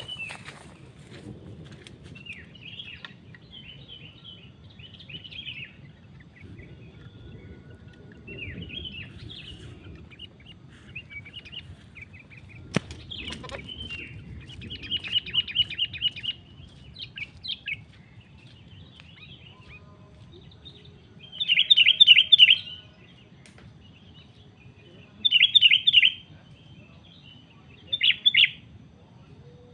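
Sooty-headed bulbuls calling: a string of short chirping phrases, with a quick, even run of notes in the middle and three loud bursts of calls in the last third. A single sharp click comes just before the middle.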